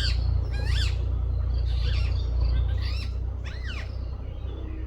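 A flock of parrots calling from a dead tree: a string of about six harsh, arching squawks, less than a second apart, dying away near the end. A steady low rumble runs underneath.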